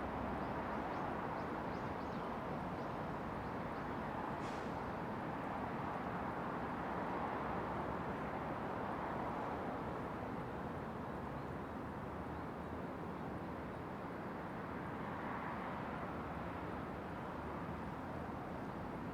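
Steady wash of distant city traffic with slow swells in level, and a brief high-pitched sound about four and a half seconds in.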